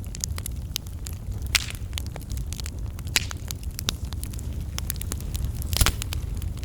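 Wood fire crackling, with many irregular sharp pops over a steady low rumble of the flames. Two louder pops come about a second and a half in and near the end.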